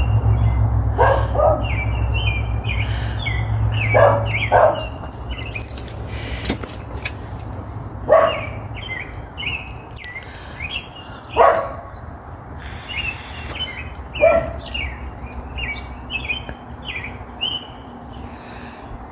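A small dog barking, a few sharp barks spread out, the first ones in pairs, over songbirds chirping steadily.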